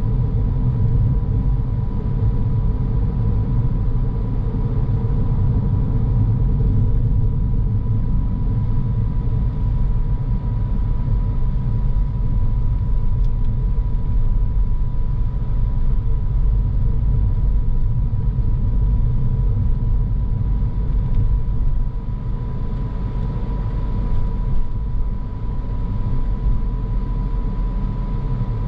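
Car driving steadily: low road and tyre rumble with engine noise, and a thin steady whine above it.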